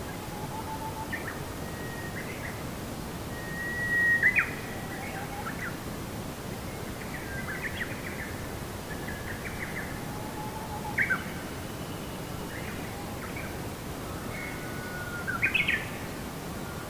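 Birds chirping and whistling, short calls and trills over a steady background hiss of outdoor ambience. Three calls stand out louder than the rest, spread through the stretch.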